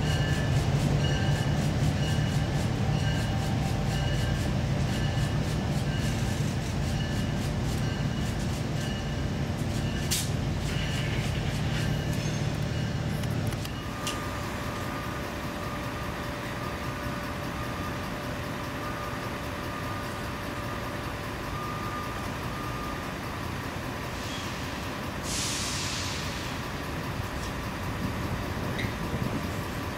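Low rumble of a train with steady whining tones, cut off abruptly about halfway through. After that comes a quieter steady hum of a distant train approaching along the track, with a brief hiss of air near the end.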